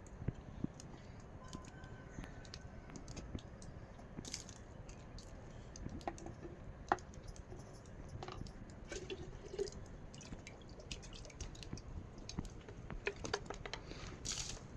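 Rainwater dripping: irregular sharp drips and taps, some louder than others, over a steady low wash of rain noise.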